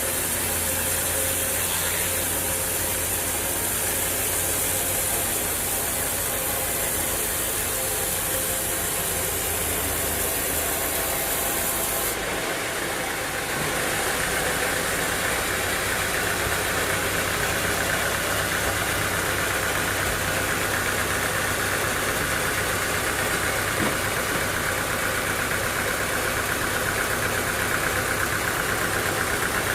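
Sawmill machinery engine running steadily. About twelve seconds in the sound changes abruptly: the high hiss drops away and a different, denser tone comes in.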